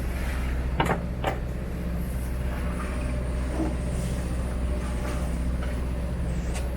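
A sailboat's engine running steadily while the boat motors along, with two sharp knocks about a second in.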